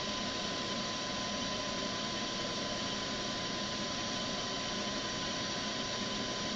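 Comet 3KVHD milling machine's spindle running steadily, with a steady high whine over its hum.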